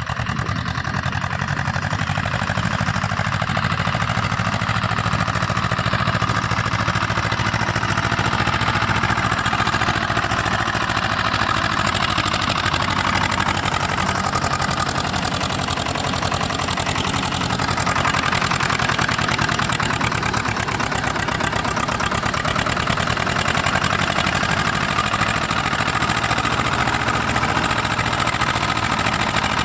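Swaraj 724 tractor's two-cylinder diesel engine running steadily with a fast, even chug.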